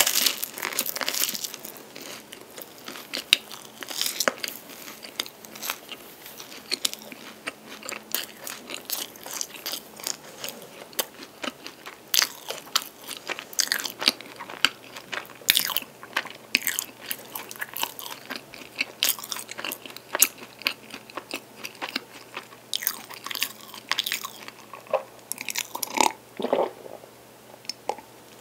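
Close-miked biting and chewing of a chocolate-coated pastry with a dark chocolate filling, a steady run of small crunches and wet clicks, with swallows of milk near the end.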